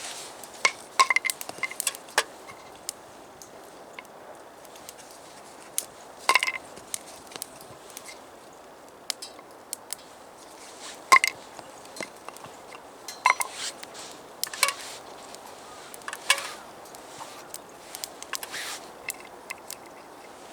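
Irregular light knocks and clinks, a few with a short metallic ring, about one every second or two.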